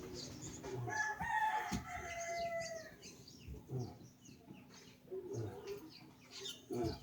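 Rooster crowing once, a long call that falls slightly in pitch, followed by a few short clucks.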